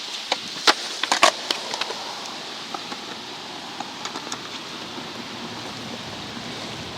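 Steady hiss of falling rain, with a few sharp clicks in the first second and a half.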